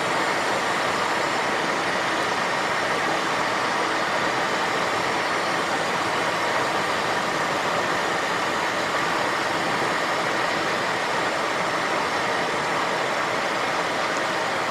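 Steady rushing noise of air and the twin turbofan engines inside the Cessna Citation XLS cockpit on final approach, even and unchanging.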